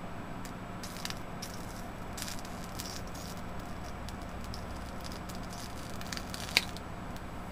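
A metal fork pressing a thin slice of bologna onto the bare die of an Athlon XP CPU that is running without a heatsink: scattered faint crackles and clicks as the meat cooks on the hot die and the fork shifts, with one sharp click near the end, over a steady low hum.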